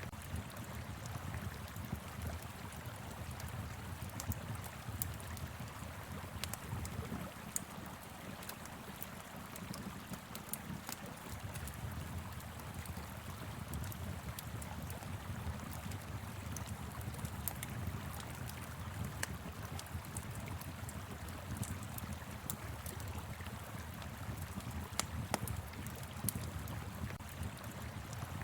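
Wood fire crackling with frequent small sharp pops, over the steady rush of a flowing river.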